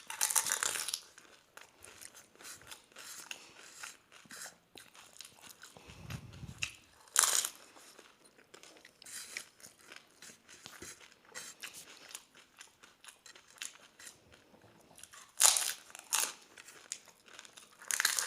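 A person eating doi fuchka (pani puri shells filled with yogurt) quickly: steady chewing and wet mouth sounds, with a few louder crunches as fresh puris are bitten.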